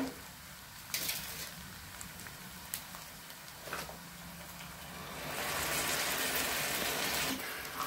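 Grated onion frying in ghee in a steel kadhai, a steady sizzle with a few light knocks; about five seconds in the sizzle grows louder as chicken in a wet green marinade is tipped into the hot ghee.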